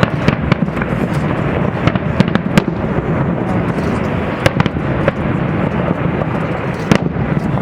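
Fireworks display in full barrage: a continuous low rumble of bursting shells with many sharp cracks and bangs on top, several standing out loudly.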